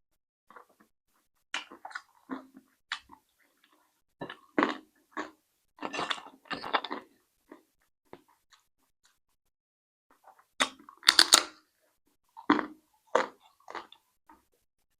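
A person chewing and crunching food close to the microphone, in irregular clusters of crunchy bites with a pause of about three seconds in the middle; the loudest crunches come about eleven seconds in.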